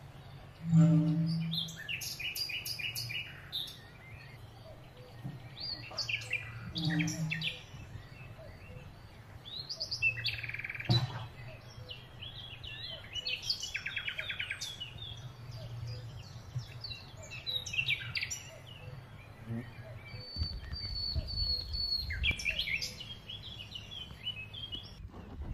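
Several songbirds chirping and singing in quick, repeated phrases, over a low steady hum, with a brief low rumble near the end.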